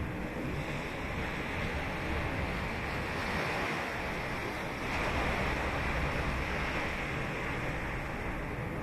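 Ocean waves breaking and washing up on the beach: a continuous surf wash that swells louder about five seconds in.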